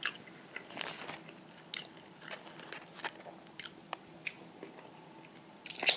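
Someone chewing a mouthful of bacon hamburger: scattered soft, wet mouth clicks and smacks, with a louder cluster near the end.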